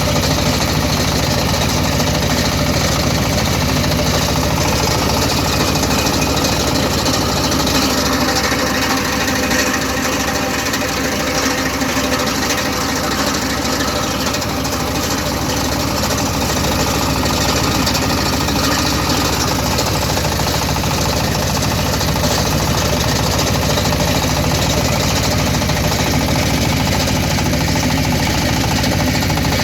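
Rice milling machine driven by a 15-horsepower diesel engine, running steadily: a loud, rapid knocking engine beat over a constant rush of machine noise.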